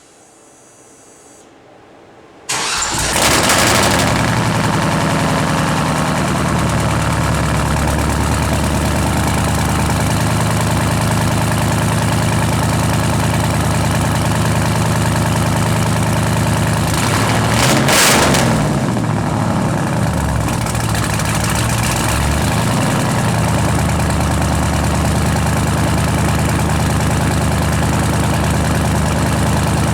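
Supercharged 6.0-litre LS V8, freshly rebuilt with a new cam, running at idle after its first start. The engine comes in loud about two and a half seconds in, is revved up once around eighteen seconds in and briefly again a few seconds later, then settles back to a steady idle.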